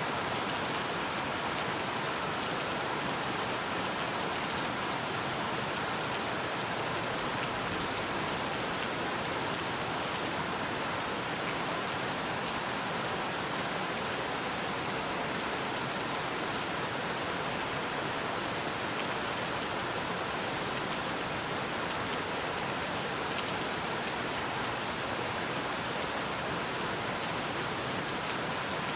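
Steady rain falling: an even, unbroken hiss of drops, with faint ticks of single drops scattered through it.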